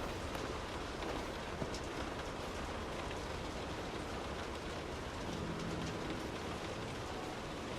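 Steady rain heard from indoors: an even hiss of rainfall with scattered individual drops ticking.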